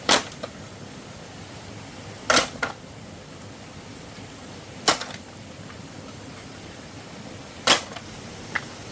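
Four sharp knocks, roughly two and a half seconds apart, each followed by a fainter one, over a steady background hiss.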